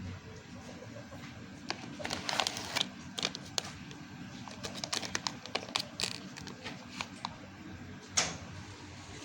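Irregular sharp clicks and taps of hard objects, in quick clusters about two to four seconds in and again around five to seven seconds, with one loud click near the end, over a steady low hum.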